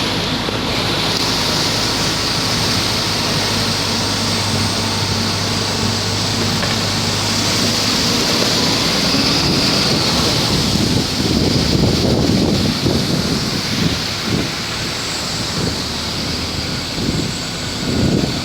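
Heavy rain pouring down in a steady, loud hiss. A low hum runs under it through the first half. From about halfway in, irregular gusts of wind buffet the microphone.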